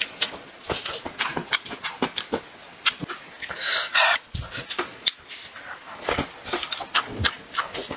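Close-up wet chewing and lip-smacking from someone eating roasted meat, in quick irregular clicks, with a short hiss about halfway through.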